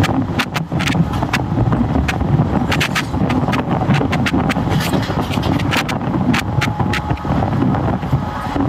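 Indian Railways passenger train running: a steady low rumble with frequent sharp, irregular rattling clicks.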